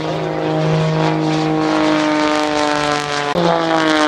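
Propeller-driven Yak-52 aerobatic aircraft passing close, the engine drone sliding slowly down in pitch. About three seconds in, the engine note changes abruptly, then falls again.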